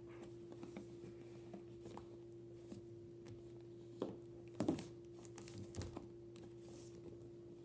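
Packaging being handled during an unboxing: light crinkling and rustling with small clicks, and two sharper knocks about four and five seconds in. A steady low hum runs underneath.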